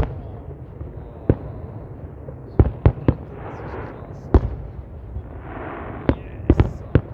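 Fireworks exploding: about ten sharp bangs at uneven intervals, some coming in quick runs of two or three.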